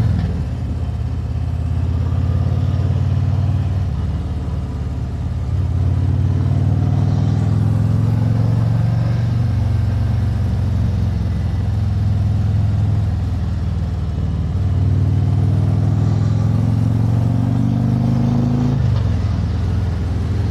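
Harley-Davidson Road Glide's V-twin engine running while riding. It climbs in pitch under acceleration and drops sharply near the end, as at an upshift.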